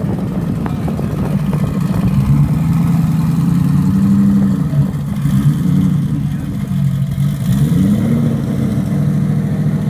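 Twin-turbo Ford GT engine running at a fast idle with light throttle blips, its pitch rising and settling about four seconds in and again near eight seconds.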